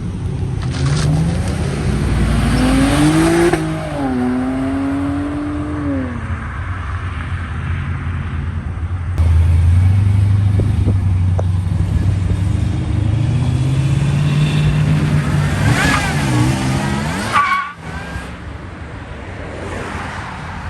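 Modified muscle car engines accelerating hard, revving up through the gears in rising sweeps with a shift a few seconds in. A second, louder run comes about nine seconds in, and a final quick rev near the end cuts off sharply.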